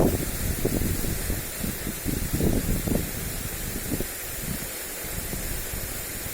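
Lawn sprinkler spraying water with a steady hiss, with gusts of wind rumbling on the microphone that ease off about halfway through.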